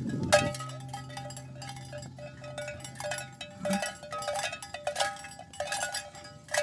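Cowbells on walking cattle clanking irregularly, each clank ringing at the same few fixed pitches. A low steady tone underlies the first half and stops about halfway through.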